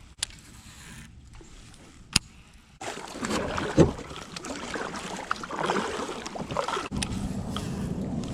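Water splashing and sloshing around a fishing kayak, starting about three seconds in and going on loudly and unevenly. Before it, two sharp knocks about two seconds apart.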